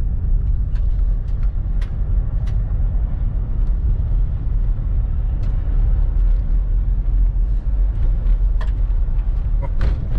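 A car driving on a rough dirt trail, heard from inside the cabin: a steady low rumble of engine and tyres, with scattered light clicks and knocks throughout.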